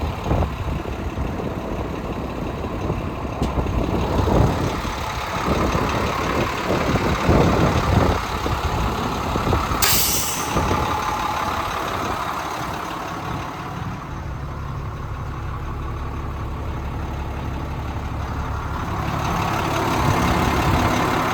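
International DT466 inline-six diesel in a 2004 International 7400 truck, running unevenly with the revs rising and falling, then settling into a steady idle. About ten seconds in there is a short, sharp hiss of air from the air brake system.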